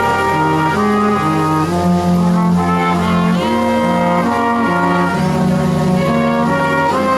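Brass instruments, trumpets and trombones, playing a melody in changing held notes, with a steady low hum underneath.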